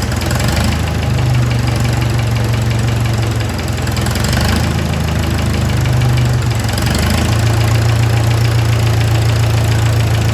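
Four-cylinder Hercules IXA engine of a 1936 Silver King R44 tractor running, its speed rising and falling a little a few times.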